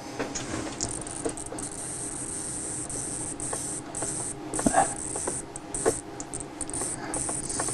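JR DS8900G digital servo powered up on the test bench, giving a steady faint hum under a high hiss, with a few light clicks about halfway through.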